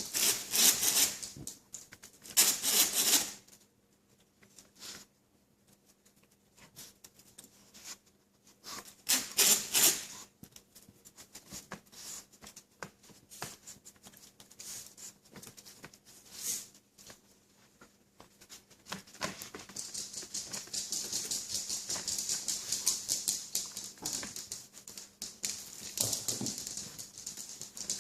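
Puppies scrambling and playing in a puppy pool: bursts of pattering and rustling, with scattered light ticks between them, then a longer stretch of dense, steady rustling near the end.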